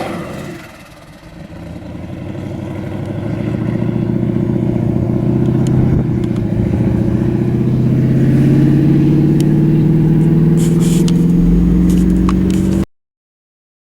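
Twin-turbo Dodge Challenger SRT8 Hemi V8 running, its revs dropping away at first and then climbing slowly and steadily as it gets louder, with a few sharp ticks along the way. The sound cuts off suddenly near the end.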